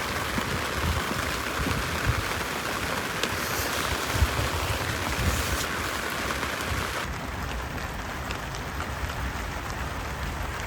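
Heavy rain falling steadily, a dense even hiss of drops on surfaces. About seven seconds in, the highest part of the hiss drops away.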